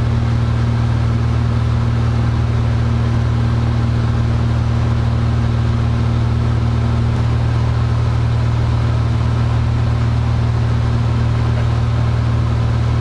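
Cessna 172F's Continental O-300 six-cylinder engine and propeller running steadily in cruise, a constant low drone heard inside the cockpit.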